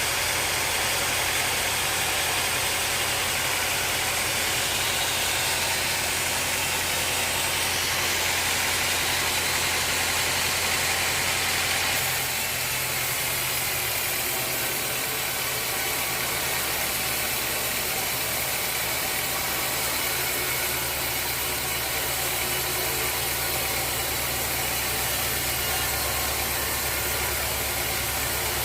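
Sawmill machinery running steadily: a constant motor hum with a hiss over it. The hum and the hiss change a little before halfway through.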